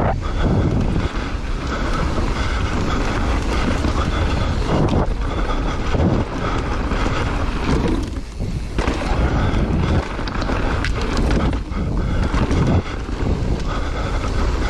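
Wind buffeting the microphone during a fast run down a snow slope, a loud, uneven rush with gusty surges throughout.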